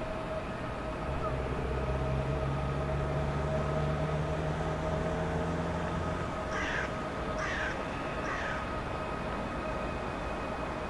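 Electric multiple unit train (a PESA Elf 27WEa) creeping into the platform with a low steady hum and a thin whine; the hum fades out a little past the middle. A crow caws three times, about a second apart, just after the hum fades.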